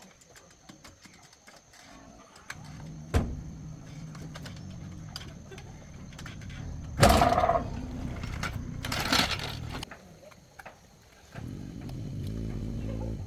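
Tractor's diesel engine running with a low, even beat, with a sharp knock soon after it starts and two loud rushing noises midway. It stops about ten seconds in and starts running again a moment later.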